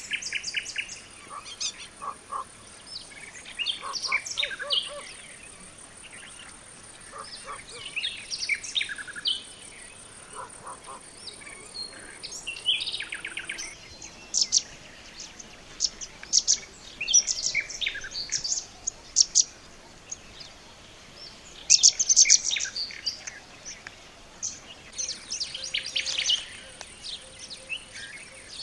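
Wild birds calling and chirping in short, bright phrases and trills, several at once, busiest about three-quarters through. A high, steady insect trill runs underneath, breaking off about halfway and starting again near the end.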